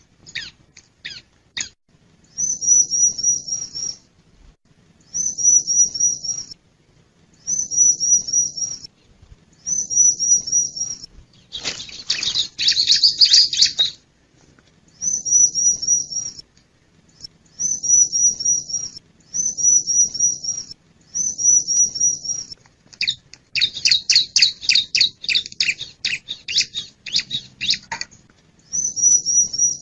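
Bar-winged prinia (ciblek) singing: short, high, rapid trilled phrases repeated every two to three seconds. Twice the trills give way to a burst of loud, sharp chattering notes.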